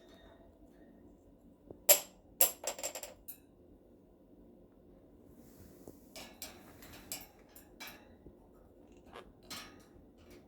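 Quaker parrot knocking and clattering a stick against hard surfaces: sharp, slightly ringing clicks and knocks, the loudest a quick cluster about two seconds in, then scattered lighter clicks from about six seconds on.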